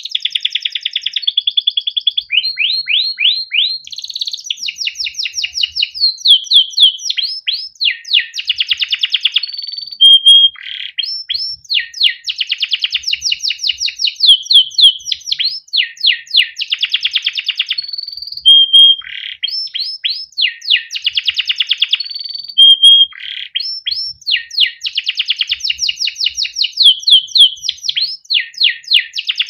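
Male domestic canary singing a long continuous song: rapid runs of repeated chirps ('cuit cuit'), rolling trills and short whistled notes, changing phrase every second or two.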